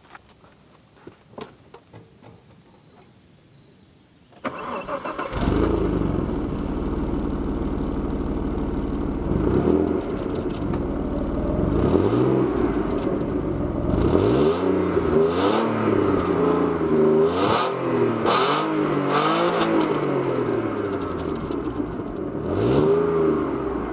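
Alfa Romeo 166's 2.5-litre Busso V6 starting about four seconds in and settling to idle, then revved again and again in short blips that rise and fall in pitch before it drops back to idle.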